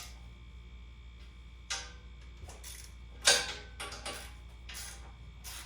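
A series of sharp metallic clanks and clinks with brief ringing from a steel exhaust header being handled and fitted against the chassis. The loudest knock comes about three and a half seconds in.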